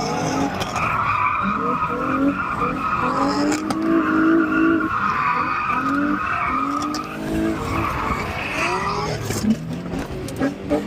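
A car doing donuts: tires squealing steadily while the engine revs rise and fall over and over, easing off a little near the end.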